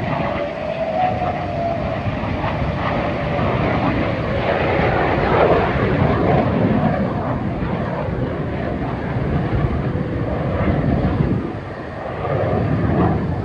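Display aircraft flying past, a loud steady rushing roar of engine noise. In the first two seconds an engine whine falls in pitch as it passes.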